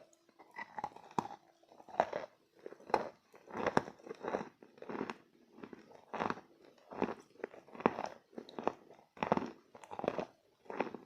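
Wet chalk being bitten and chewed close to the microphone, with a sharp crunch a little more than once a second.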